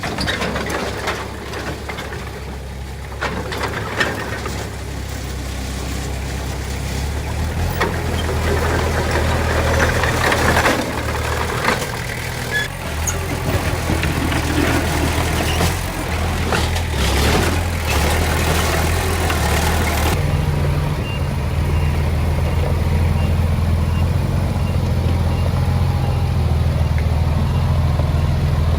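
Diesel engine of heavy earthmoving machinery running steadily, with scattered clanks and scrapes over it. About two-thirds in the clanking stops abruptly and only the steady engine remains.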